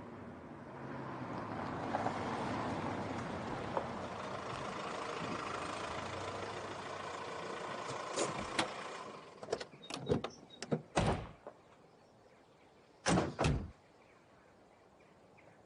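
A motor vehicle running steadily for several seconds, then car door sounds: a string of clicks and knocks, and near the end a heavy door shutting with two quick thuds.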